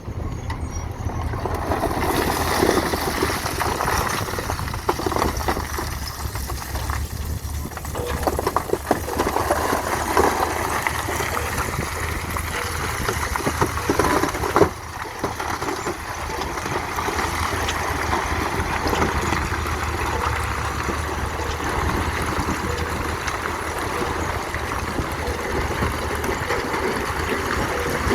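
Radio-controlled model dump trucks and bulldozer working: a steady low motor hum under rough scraping and clattering, with many small knocks and one sharper knock about halfway through.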